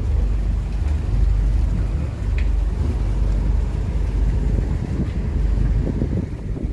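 Low, steady engine rumble with wind buffeting the microphone.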